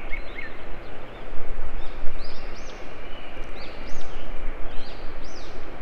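Birds calling in the background, a series of short rising-and-falling whistled notes repeated several times, over a continuous rushing noise.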